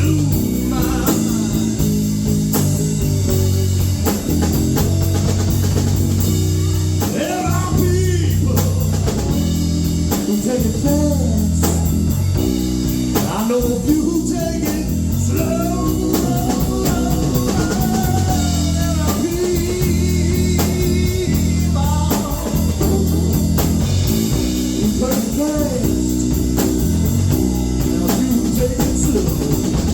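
Blues-rock band playing live: guitar over bass and drum kit, continuous through the whole passage.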